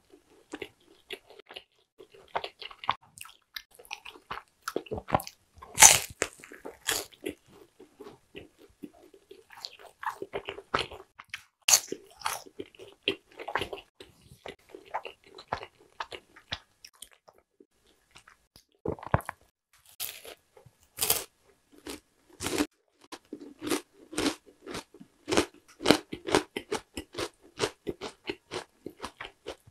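Close-miked crunching and chewing of yugwa, a crisp puffed-rice Korean snack: many sharp, irregular crackles over softer chewing, with a short lull about two-thirds of the way through.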